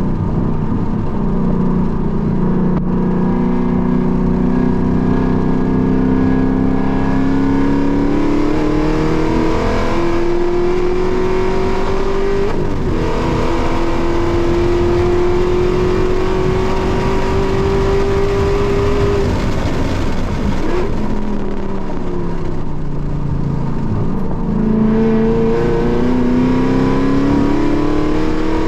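Car engine heard from inside the cabin under hard acceleration on a race track, its note climbing slowly for most of the time, falling away as the car slows about two-thirds of the way through, then climbing again near the end.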